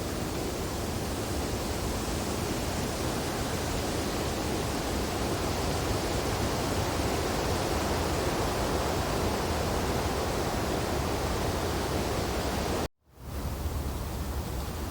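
Wind blowing through snowy tree branches, a steady rushing noise. About thirteen seconds in it cuts out to silence for a moment and swells back.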